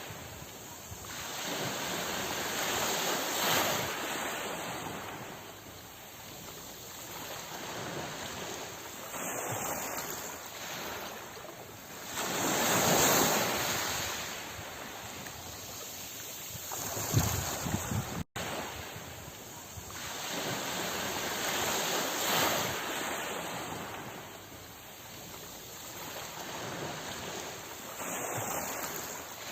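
Ocean surf: waves washing in and drawing back in slow, repeated swells of rushing noise, with a brief dropout a little past halfway.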